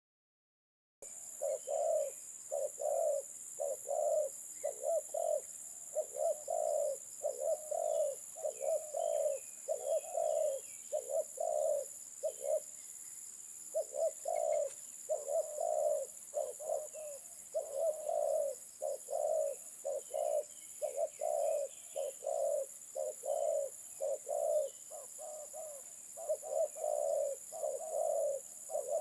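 Spotted dove cooing over and over in short repeated phrases, starting about a second in, with faint chirps of small birds and a steady high hiss behind.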